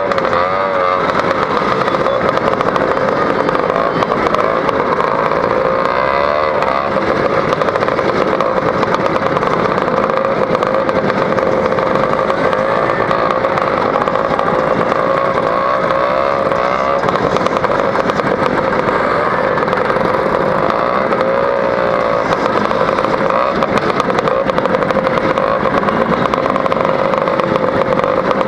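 Two-stroke Lambretta scooter engine running under way through an AF reverse cone exhaust. The exhaust note holds steady, with its pitch wavering up and down a few times as the throttle changes.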